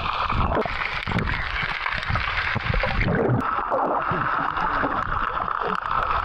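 Rushing, splashing water, steady throughout, its hiss turning duller about three seconds in.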